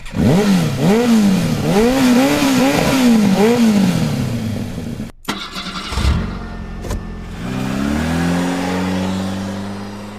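Motorcycle engine revving up and down in quick bursts, about five times, then a couple of knocks after a brief cut-off. It then winds up again and holds a steady drone.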